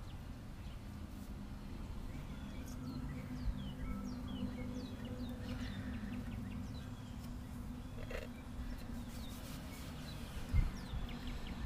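Birds chirping repeatedly in short falling notes over a steady low hum, with a single dull thump near the end.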